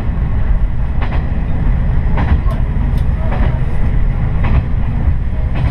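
Diesel railcar running along the line, heard from inside the car: a steady low rumble of engine and wheels, with sharp clicks from the wheels passing over rail joints every half second to a second.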